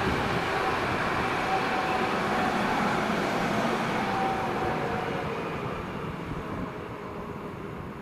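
Train running past on the line: a steady rumble of wheels on rails with a faint whine, fading away over the last few seconds as the train moves off.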